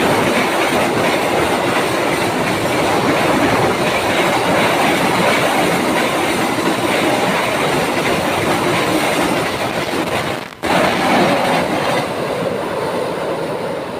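Container freight train wagons rolling over a railway bridge: a steady loud clatter and rumble of wheels on rails, cut off for an instant about ten and a half seconds in.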